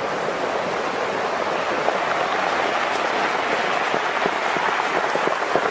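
Steady heavy water noise, rain falling and pattering on surfaces with many small drop ticks throughout, over the flash-flood water.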